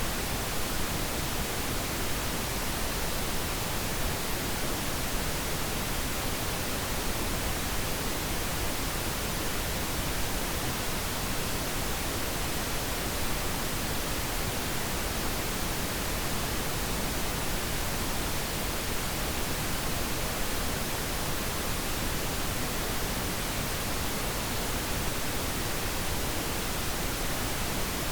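Synthetic pink noise: a steady, unchanging hiss spread evenly across all pitches, with no breaks or variation.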